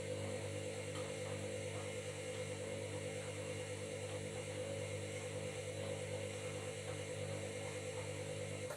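Washing machine running steadily, its motor giving a hum with several fixed tones, which cuts off abruptly right at the end.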